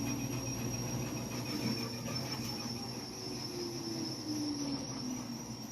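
Washing machine running with a steady high-pitched whistle over a low hum, with a lower tone that slowly drifts up and down; the owner suspects a belt.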